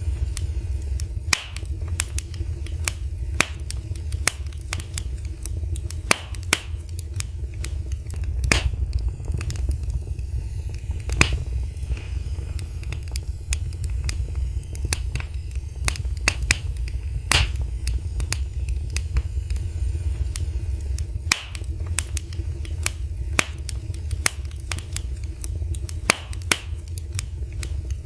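Wood fire burning in a fireplace: a steady low rumble of the flames with sharp, irregular crackles and pops of the burning wood.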